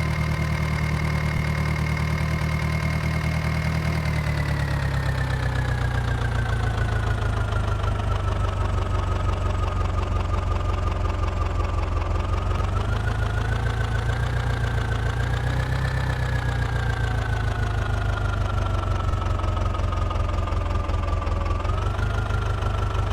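New Holland 4710 tractor's diesel engine running steadily, with a high whine that follows its speed; the engine slows about four seconds in, then rises and falls gently a couple of times.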